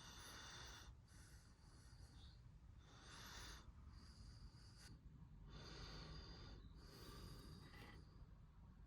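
Near silence with faint, repeated breaths, a soft one every second or two.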